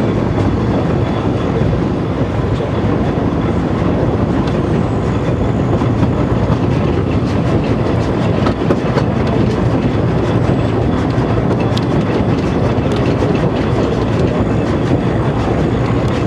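Narrow-gauge mountain railway train running along the track: a steady, loud running rumble with scattered clicks of the wheels over the rails.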